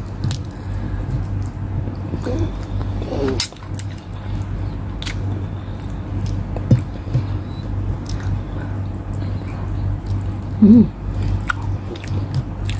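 Close-up eating sounds: chewing and biting on adobo chicken wings eaten by hand, with scattered small clicks and smacks, over a steady low hum. A brief vocal sound comes near the end.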